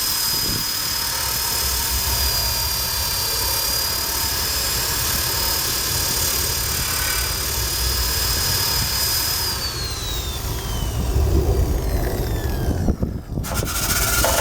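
Drill-driven wire brush running at a steady speed, scraping rust and paint off a steel motorcycle frame. About ten seconds in the trigger is let go and the motor's whine falls as it winds down, stopping briefly near the end.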